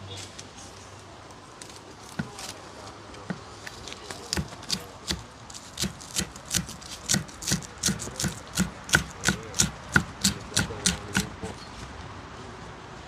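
Knife chopping food on a cutting board: a few single chops, then a steady run of quick chops, about three a second, for some seven seconds before stopping.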